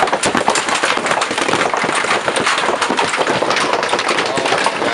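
Golf-ball-sized hailstones pelting down hard, a dense, rapid clatter of sharp impacts with no let-up.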